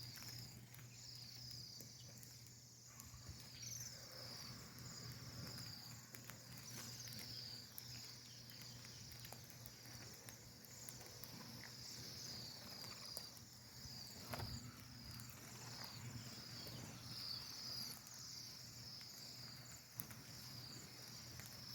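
A flock of small birds in a tree chirping together, many short high chirps overlapping without pause, over a faint steady low hum.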